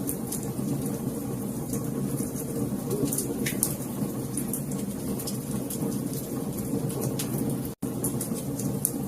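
Wood fire crackling in a fireplace: frequent sharp little pops and snaps over a steady low rumble of the flames. The sound cuts out for an instant about eight seconds in.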